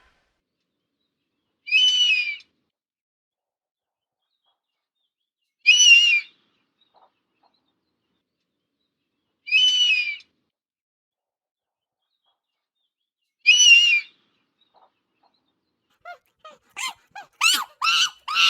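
An eagle screaming: four short, high-pitched calls about four seconds apart. Near the end a monkey starts a fast run of chattering calls.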